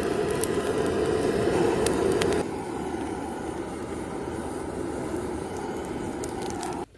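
Steady rain falling on the tent and tarp, a dense rushing hiss with scattered sharp drip ticks. It drops to a quieter level about two and a half seconds in and cuts off abruptly near the end.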